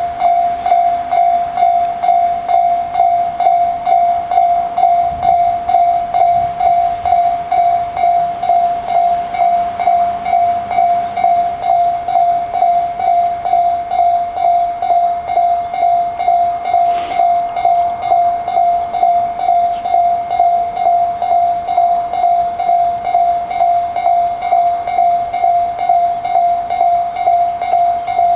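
Japanese level-crossing warning bell ringing steadily in an even, quick rhythm of about two strikes a second, the signal that a train is approaching the crossing. A short click sounds once about 17 seconds in.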